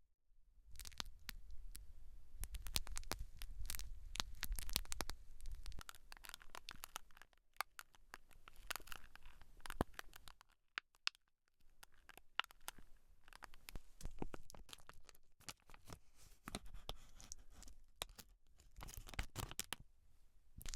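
Close-miked scratching and rubbing on hair and scalp, crackly with many small sharp clicks, coming in stretches with a few brief pauses.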